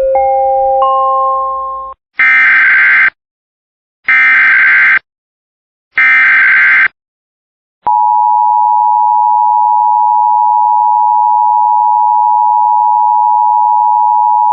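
Emergency Alert System tornado-warning sequence: a short three-note chime, then the three one-second warbling SAME header data bursts, then the steady two-tone EAS attention signal (853 and 960 Hz) starting about eight seconds in and holding to the end. It signals that a spoken tornado warning is about to follow.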